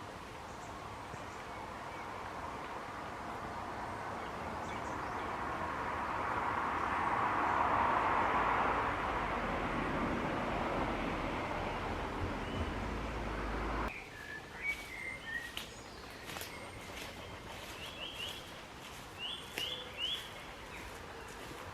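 A rushing noise swells for several seconds and then eases off, cutting out suddenly over halfway through. After that, birds chirp in short rising notes over a scatter of sharp clicks.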